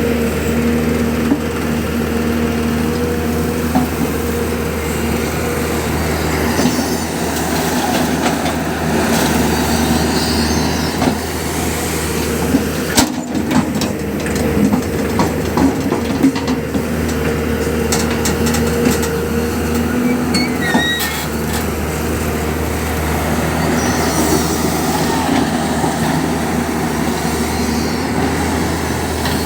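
Diesel engine of a JCB backhoe loader running steadily under working load while it loads mud, with a few sharp clanks along the way.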